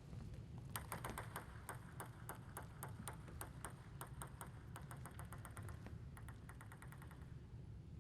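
Table tennis ball in a rally, struck back and forth by rackets and bouncing on the table: a quick, slightly uneven run of sharp pings that starts about a second in and stops near the end.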